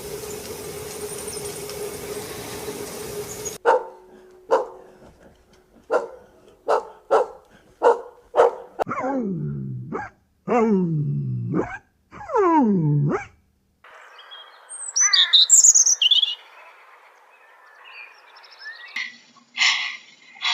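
A steady hum and hiss, then a dog barking in short sharp barks and a few longer barks that fall steeply in pitch, followed by high bird chirps.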